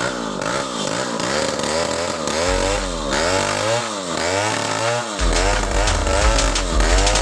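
Chainsaw engine revving up and down in quick, regular sweeps about twice a second. A deep electronic music bass comes in under it, louder after about five seconds.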